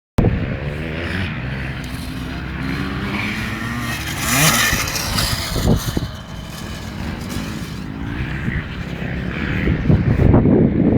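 Motocross dirt bike engine running, its note rising and falling as the revs change.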